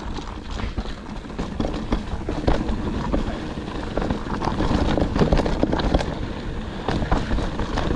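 Mountain bike rolling along a dirt trail, its tyres crunching and the bike knocking and rattling over rough ground, with wind buffeting the action camera's microphone.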